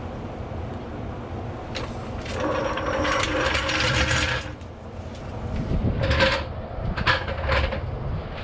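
A ratchet wrench working a bolt on the Supra's differential: a long run of ratcheting about two and a half seconds in, then three short bursts of clicks.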